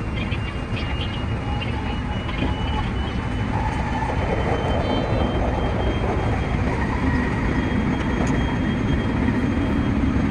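Running noise of a 223 series 2000 electric multiple unit heard from the driver's cab: a steady rumble of wheels on rail with a faint thin high whine, growing a little louder in the second half.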